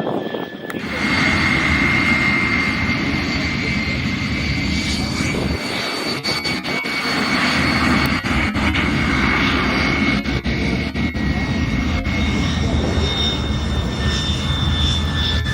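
MiG-17 jet fighters' turbojet engines running with a steady loud roar and a high whine that shifts slightly in pitch. The sound starts abruptly about a second in.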